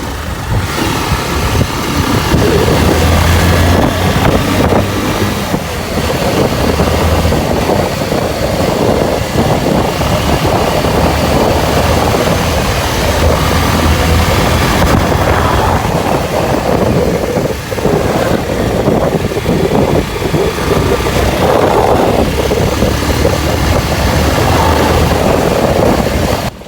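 Wind rushing over the microphone of a moving motorcycle, with the engine running underneath.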